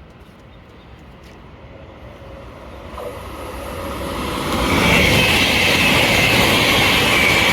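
Greater Anglia Class 755 train approaching and running through the station at speed. It grows steadily louder over about five seconds into a loud, sustained rush with a steady high whine.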